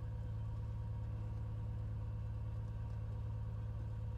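Cessna 182L Skylane's O-470 piston engine (Northpoint XP470 conversion) and propeller running steadily, a constant low drone heard inside the cabin.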